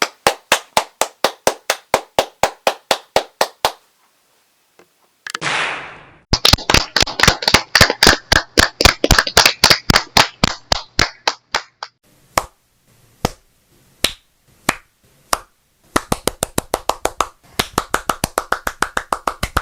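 Hand clapping as separate sharp claps in a small room: a fast, even run of about five claps a second, a pause, a brief rushing noise, a longer fast run, a few single claps about a second apart, then another fast run.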